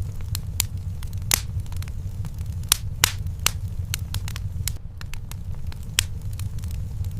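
Wood fire in a fireplace crackling, with irregular sharp pops, three of them louder than the rest, over a steady low rumble.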